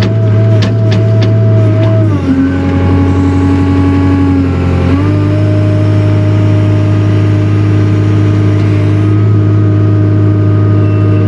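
Takeuchi TL240 skid steer's diesel engine running steadily at high revs. About two seconds in, it drops in pitch for about three seconds, as if lugging under load, then picks back up.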